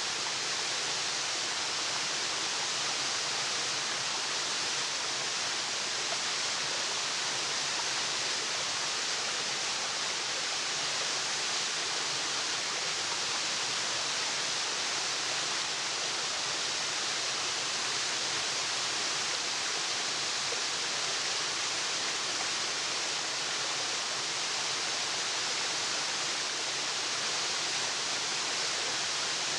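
Waterfall: a steady, unbroken rush of falling water, mostly a bright hiss.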